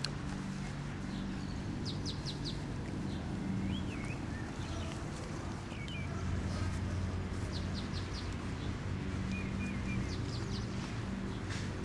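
Small birds chirping in quick runs of short, high notes, with a few wavering whistled notes, over a steady low hum.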